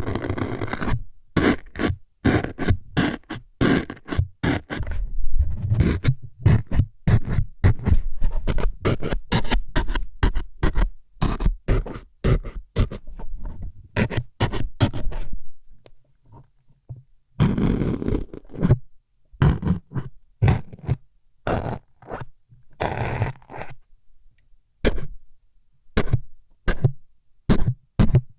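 Close-miked ASMR stabbing sounds, meant as needles jabbed into the ears: a fast, irregular run of short scraping jabs, with a longer scrape a little past halfway.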